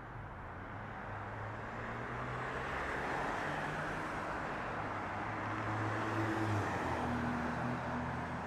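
Rushing engine noise of passing vehicles that swells over the first three seconds and then holds steady, with a low hum underneath.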